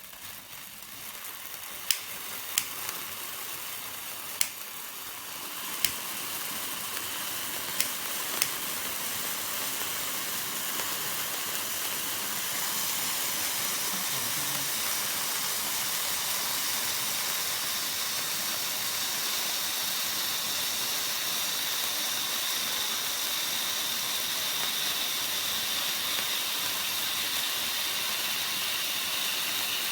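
Colored-flame party candle fireworks burning with a steady hiss that builds over the first dozen seconds and then holds. Several sharp clicks or pops come during the first eight seconds or so.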